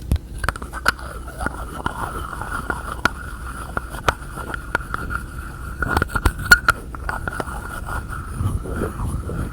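Close-miked tapping and fiddling on containers and their lids: irregular sharp taps and clicks, a few louder ones about six seconds in, over a steady high ringing tone that starts about half a second in.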